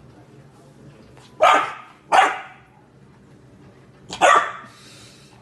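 A dog barking three times in short, sharp barks, spaced about a second or two apart.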